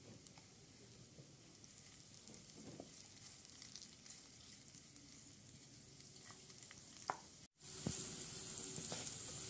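Sausages frying in hot oil with crushed chili flakes in a nonstick pan, sizzling and crackling as a spatula pushes the chili over them and scrapes the pan. A short break comes about three-quarters of the way in, after which the sizzle is louder.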